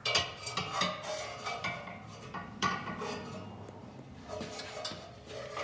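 Metal clinking, knocking and scraping as exhaust pipe and muffler parts are handled and worked into place, several sharp knocks with short metallic ringing.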